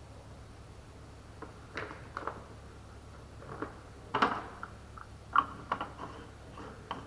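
A few irregular knocks and clinks of hard objects being handled, the loudest about four seconds in, some with a brief ring, over a low steady hum.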